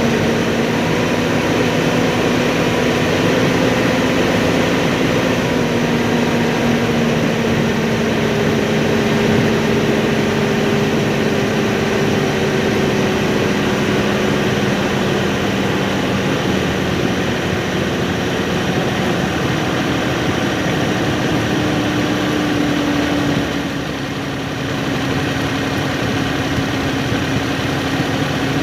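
Tractor engine running loud and steady under throttle, its pitch slowly sinking as the revs ease down. Near the end it dips briefly, then holds at a steady speed.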